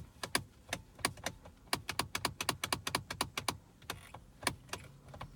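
Rapid, irregular clicking, about four to five sharp clicks a second, each with a faint dull knock under it.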